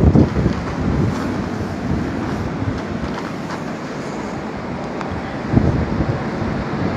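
Blizzard wind blowing and buffeting the microphone, a steady rush with a stronger gust right at the start and another about five and a half seconds in.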